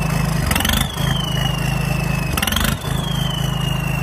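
Swaraj 855 tractor's three-cylinder diesel engine, fitted with a turbocharger, idling with two quick throttle blips, about half a second and two and a half seconds in. With each blip the turbo's high whistle rises, then slowly falls as it spools down.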